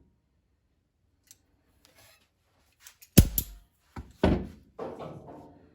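Parts of a disassembled pneumatic flange tool being handled: a run of five sharp metal knocks and clanks, some ringing briefly, starting about halfway in, the loudest just after three seconds.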